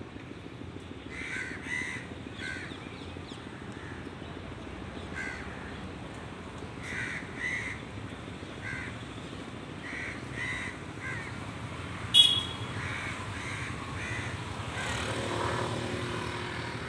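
Birds calling in short calls, singly and in pairs, every second or two, over low steady background noise. A sharp click about twelve seconds in is the loudest sound, and a low rumble swells near the end.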